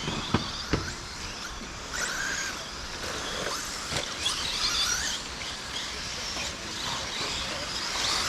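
Several radio-controlled 2wd stadium trucks racing on a dirt track: their electric motors whining up and down in pitch as they accelerate and brake, with a few sharp clicks from the trucks knocking or landing.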